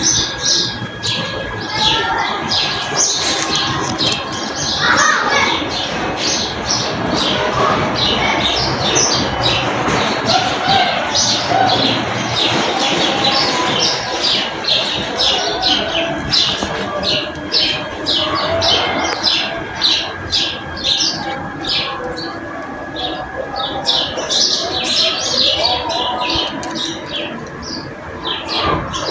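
Many small birds chirping together: a dense, continuous chorus of short, quick, high-pitched chirps.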